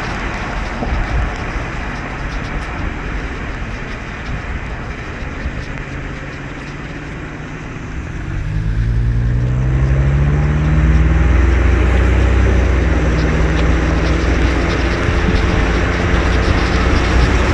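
Car driving on a wet road in the rain: steady hiss of rain and tyres at first, then about halfway through the engine note rises as the car accelerates and settles into a steady drone with louder road noise.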